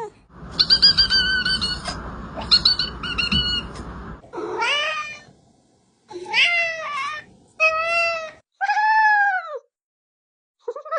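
Domestic cat meowing: several short high-pitched calls over a background hiss, then four drawn-out meows that rise and fall in pitch, the last one the longest.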